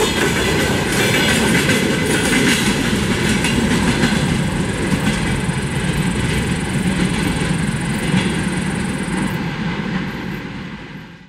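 Freight train wagons rolling past, wheels clicking over the rail joints over a steady rumble. The sound fades away near the end as the last car recedes.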